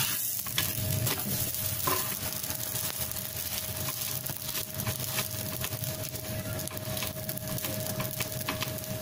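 Semolina-and-vegetable batter toast frying in oil on a flat iron tawa, sizzling, with a steel slotted spatula scraping and tapping against the griddle as the slice is flipped and pressed down.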